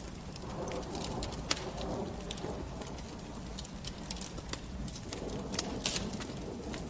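Wood fire crackling in a fireplace: irregular sharp pops and snaps over a steady low noise of burning.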